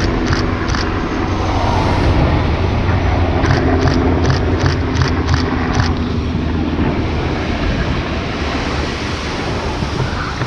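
Military helicopter flying by, its rotor thudding steadily under a steady turbine tone, with wind buffeting the microphone.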